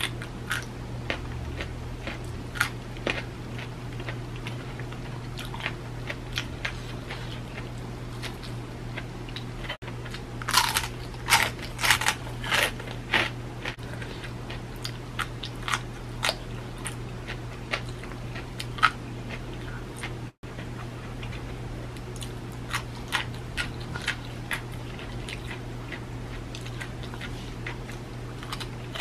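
Close-up crunching as kerupuk crackers and raw long beans are bitten and chewed, with a burst of louder crunches about ten seconds in. A steady low hum runs underneath.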